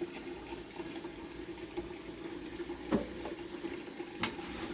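Wet cloth wiping and scrubbing inside a microwave with soapy water, a soft watery rubbing over a steady low hum, with two sharp knocks about three and four seconds in.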